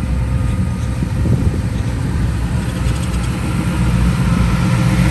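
A car engine idling with a deep, low exhaust rumble, growing a little louder near the end.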